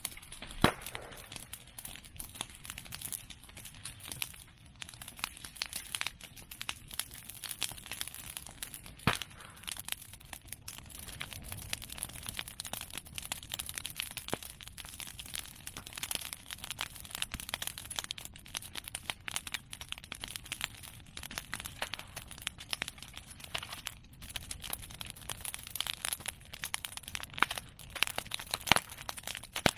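Bonfire of cut Simon bamboo and chestnut prunings crackling, a dense run of small snaps, with a few louder sharp pops: about a second in, about nine seconds in, and near the end.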